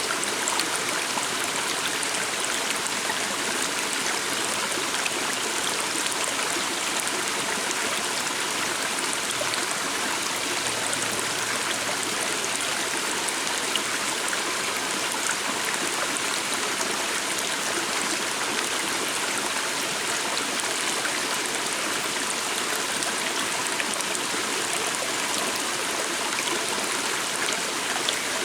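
Stream of water flowing steadily over stones, an even rushing and trickling.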